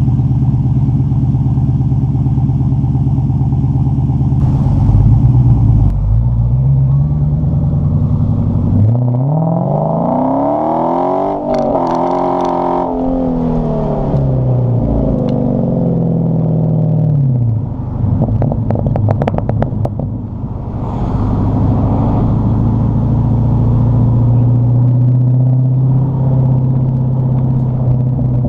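Dodge Challenger SRT8's 6.4-litre HEMI V8 through a muffler-delete exhaust, running steadily. It is revved once briefly, then climbs in a long rev and winds back down, and settles to a steady run again.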